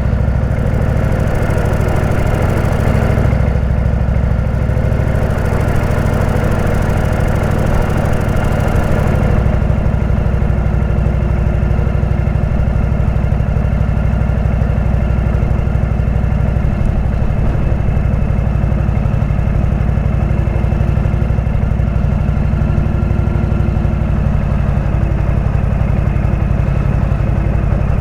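Indian V-twin motorcycle engine running steadily through a Jekill & Hyde exhaust, with two short rushes of hiss in the first nine seconds.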